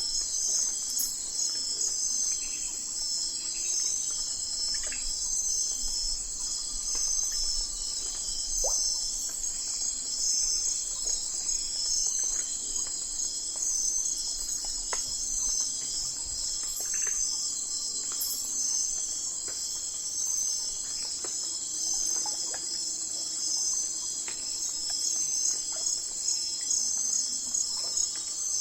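Night forest insect chorus: crickets and other insects chirping in a dense, steady high-pitched trill, with faint scattered short calls underneath.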